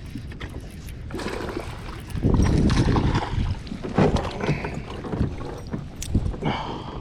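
Water splashing and sloshing around a fishing kayak, with knocks and clatters against the hull, heaviest a couple of seconds in.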